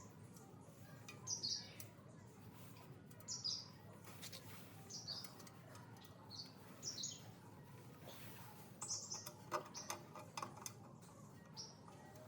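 A small bird chirping, short high chirps that fall in pitch, repeated at irregular intervals of a second or two, with faint scattered clicks in the background.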